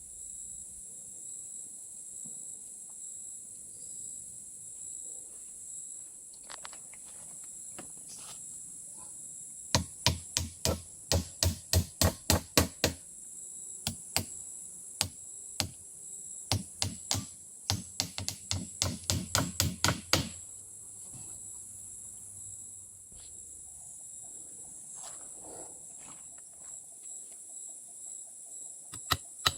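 Two quick runs of sharp knocks or chopping strokes, about four a second, each lasting three to four seconds, over a steady high drone of tropical forest insects.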